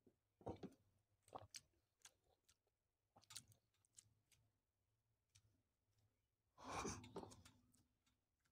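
Faint mouth sounds of eating steamed veg momos: a few soft lip smacks and chewing clicks in the first few seconds, then a breathy sigh about seven seconds in.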